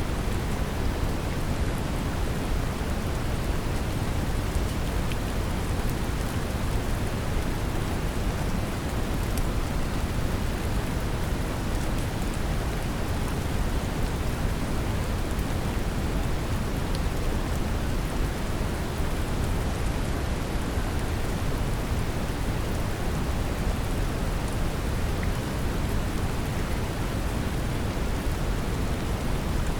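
Steady brown noise mixed with rain: an even, deep hiss heaviest in the low end, with faint scattered drop ticks on top.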